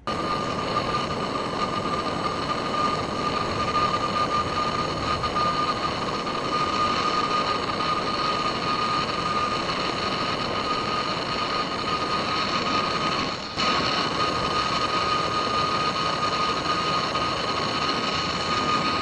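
Gas brazing torch flame hissing steadily with a thin, steady whistle on top, heating a copper-to-aluminum pipe joint. It dips briefly about two-thirds of the way through.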